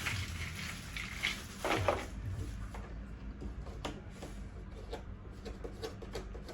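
Plastic parts of a baby high chair base being handled and fitted together: rustling and scraping for about two seconds, then scattered light clicks and taps.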